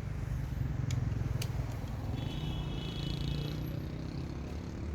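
Low, steady rumble of a vehicle or street traffic, with two short clicks about a second in and a brief high tone in the middle.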